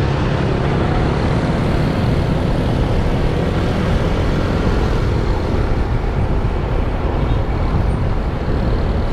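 Motorbike running at speed, with a steady rush of wind over the microphone and surrounding traffic.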